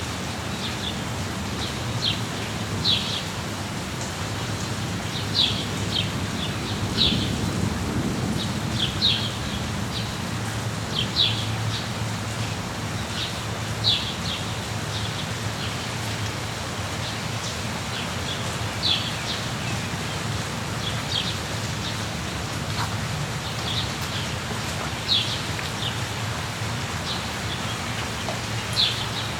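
Steady rain, with short high bird chirps every second or two. A low rumble swells briefly about seven seconds in.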